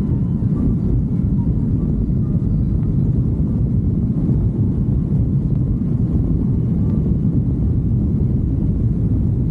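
Steady low rumble of a moving motorcycle, engine and wind noise blended together, unchanging in level.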